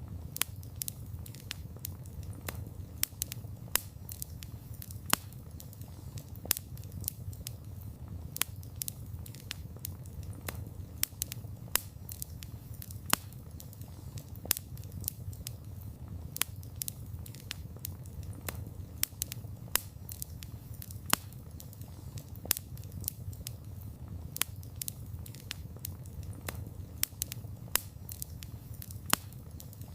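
Wood campfire burning: dense, irregular crackling of sharp pops, several a second with an occasional louder snap, over a low, steady noise of the flames.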